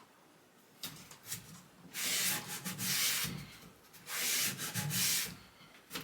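Wood being sanded or rubbed by hand: two long strokes, about two seconds in and again about four seconds in, with a few light knocks between.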